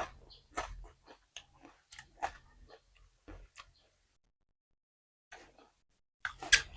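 Close-up chewing and biting into a microphone: a string of short, sharp crunching and smacking mouth sounds, then a pause of about a second and a half, then a louder bite near the end.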